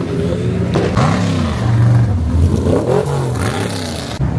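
Car engine revving, its pitch rising and falling a couple of times.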